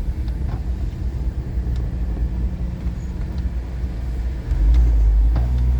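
Road and engine rumble heard inside a moving car's cabin, steady at first and growing louder and deeper about three-quarters of the way through.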